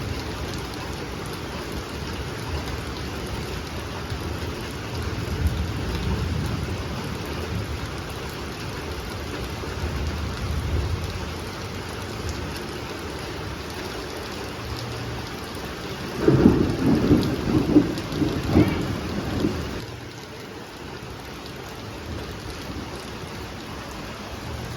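Heavy rain falling steadily in a storm, with one loud, low rumble of thunder lasting a few seconds past the middle.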